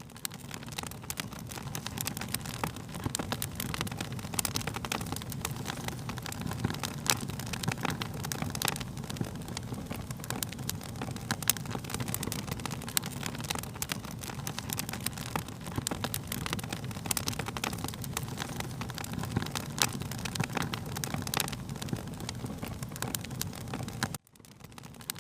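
Wood fire crackling, with frequent sharp pops and snaps over a steady low rumble of flames. The sound cuts out briefly near the end.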